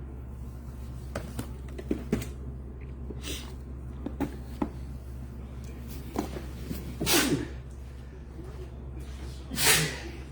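Light clicks and knocks of objects being handled, then two short, louder swishes, over a steady low electrical hum.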